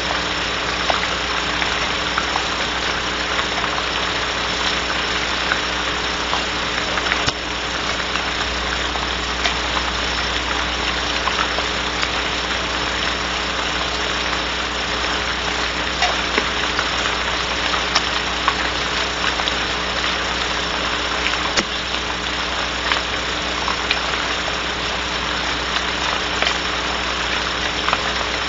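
Steady hiss of rain on a barn owl nest box, picked up by the nest-cam microphone, with scattered light drip clicks and a constant low electrical hum.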